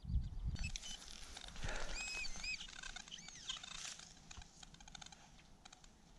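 A low rumble fades out in the first half second. After it come faint small clicks and rustling, and a bird gives a few short high chirping calls about two to three and a half seconds in.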